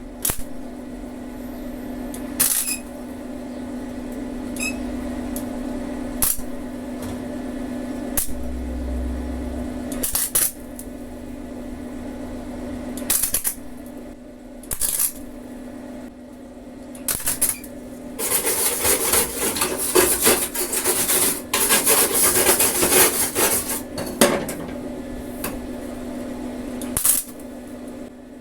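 Welding work on a VW Kombi body: a steady electrical hum with scattered metallic clicks and knocks. About 18 seconds in comes a few seconds of dense crackling, the sound of the welding arc.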